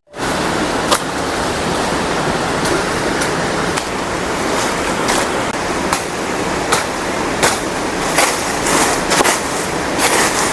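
Steady rush of a waterfall and river, with short sharp crackles and rustles scattered over it, coming more often in the second half.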